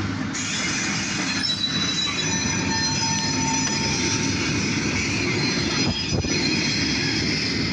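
Freight train of covered hopper cars rolling past, with the steady noise of wheels on rail and high, steady wheel squeal for a few seconds starting about a second and a half in.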